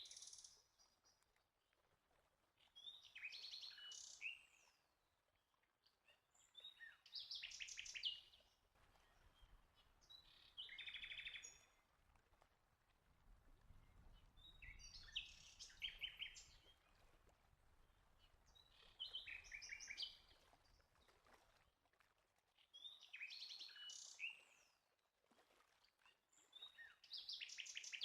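Faint birdsong: a songbird repeating a short, chirpy song phrase about every three to four seconds.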